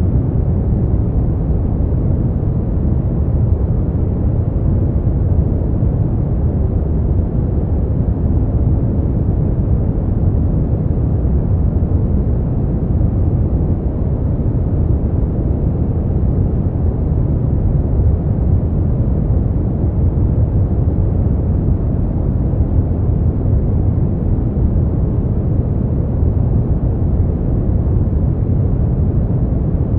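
Brown noise: a steady, deep rushing hiss with most of its energy in the low end.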